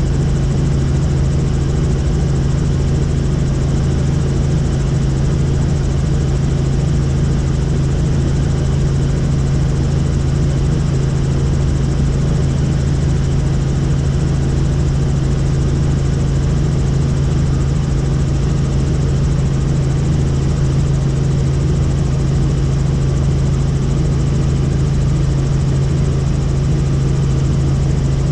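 Helicopter in flight, heard aboard: a loud, unchanging drone of turbine and rotor with a strong low hum.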